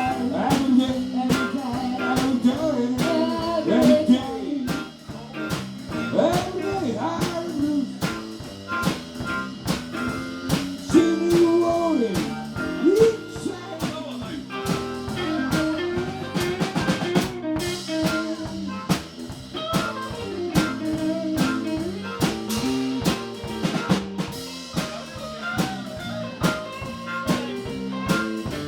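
Live blues band playing an instrumental break: a guitar lead with bent, sliding notes over a steady drum-kit beat.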